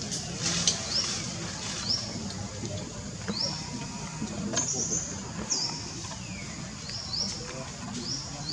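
A bird calling in forest surroundings: short, high, rising chirps repeated roughly once a second, one of them drawn out near the middle.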